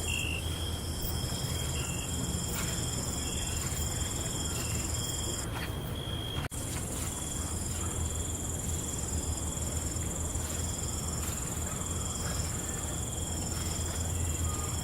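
Night insects, crickets among them, trilling without pause at several steady high pitches over a low steady rumble. The highest trill drops out for about a second, and all sound cuts off for an instant about six and a half seconds in.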